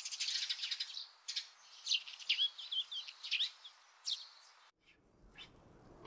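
Small birds chirping and twittering, with a fast rattling trill at the start, a morning bird sound that cuts off abruptly near the end.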